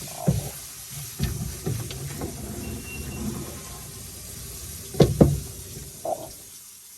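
Several light knocks and clatters of household items being handled and set down, over a steady hiss, with two sharp knocks close together about five seconds in.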